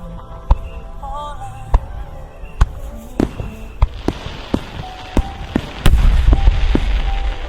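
Large aerial firework shells bursting in a run of sharp bangs over music. From about four seconds in a steady hiss builds under the bangs, and a heavy low boom comes near six seconds.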